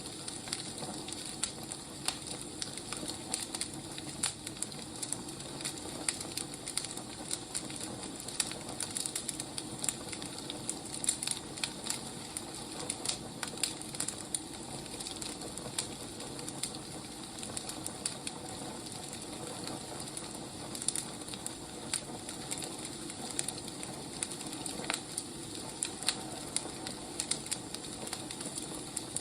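Firewood burning, crackling with frequent irregular sharp pops over a steady hiss.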